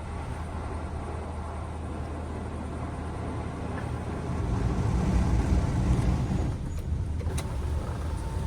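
Automatic car wash working over a car, heard from inside the cabin: a low rumble and hiss that grows louder about four seconds in, with a sharp click near the end.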